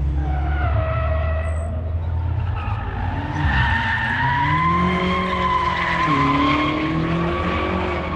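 BMW sliding in a drift demonstration, its tyres letting out a long wavering squeal that grows louder about three and a half seconds in, over its engine revving up and down.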